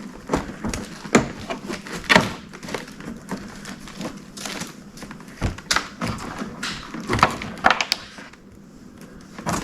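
Irregular clicks, knocks and rattles of hard plastic as headlight assemblies and their bulbs are handled during a bulb swap. It goes quieter for about a second near the end, then one last knock.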